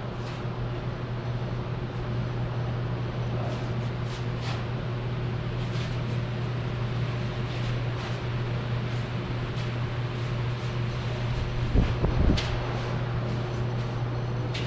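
A steady low mechanical hum, with scattered light clicks and a couple of thumps about twelve seconds in.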